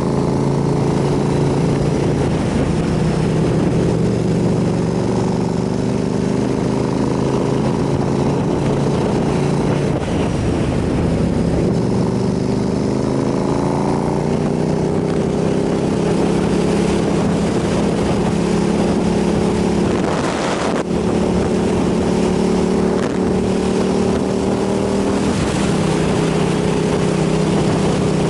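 Motorcycle engine running steadily under way, its pitch drifting gently up and down with throttle, with wind buffeting the microphone.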